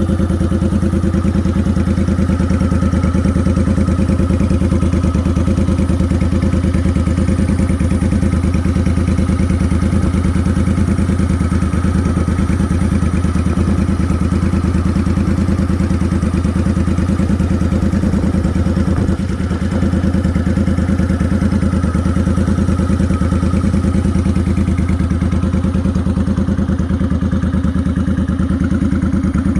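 Motorcycle engine running steadily without revving, its firing pulses close and even, with a brief dip in level about two-thirds of the way through.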